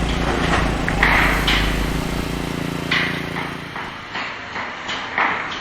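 A steady low mechanical rumble and hum with irregular knocks and clatter over it; the rumble drops away a little over halfway through, and the knocks carry on as the sound fades.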